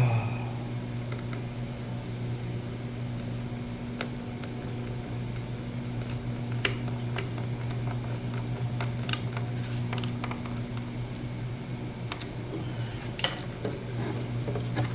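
Scattered light metallic clicks and clinks of small hardware being handled, with a short cluster of them near the end, over a steady low electrical hum.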